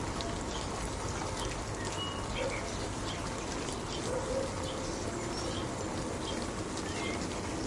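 Steady rain falling, with a few short bird chirps heard faintly over it.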